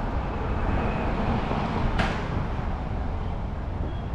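Motorcycle riding noise picked up by an on-bike or helmet camera: steady engine and road rumble with wind rush. A brief sharp click about two seconds in.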